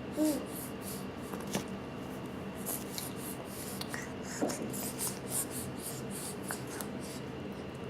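Soft, repeated scraping and wet smacking sounds of a baby being spoon-fed, with a brief small vocal sound just after the start and another about halfway through.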